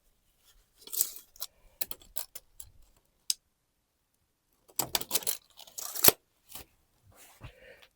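Scattered sharp clicks, light knocks and rustles of small objects being handled, with a denser cluster of knocks about five seconds in.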